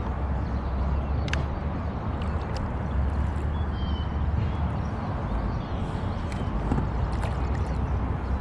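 Water moving and knocking against a fishing kayak's hull with a steady low rumble, and scattered small clicks and knocks on the boat.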